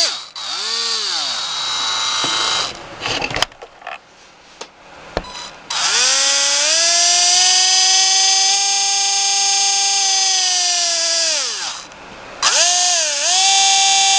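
15.5-turn brushless motor in an RC short-course truck whining under throttle, its pitch rising and falling with speed. A short burst comes first, then a run of about six seconds held at a steady high pitch, then two quick bursts near the end.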